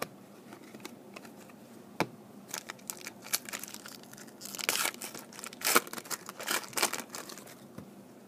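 Foil wrapper of a football trading-card pack crinkling and tearing open, in irregular crackly bursts after a sharp click about two seconds in, loudest in the second half.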